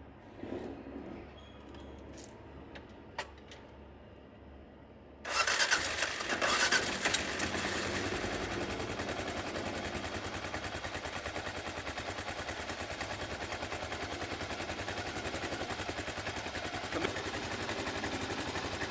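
Kawasaki KLR650's single-cylinder engine, after a few clicks, starting about five seconds in and then idling steadily with a fast, even beat. It is being run to circulate freshly changed oil.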